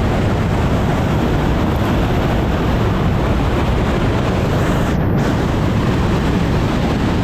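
Waterfall and creek water rushing, a loud, steady noise.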